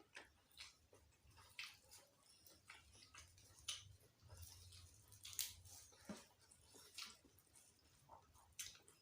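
Faint, close-miked eating sounds: chewing with about ten irregular wet lip-smacks and mouth clicks, from a mouthful of gulai kikil (beef-skin curry) and raw vegetables.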